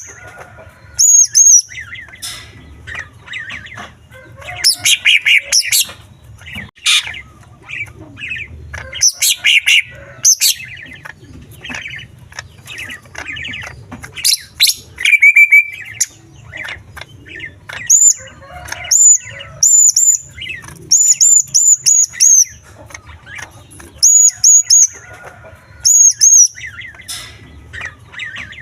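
Cucak ijo (greater green leafbird) singing a fast, varied song full of mimicked small-bird calls: loud bursts of chattering notes alternating with runs of short, high whistled notes repeated several times over.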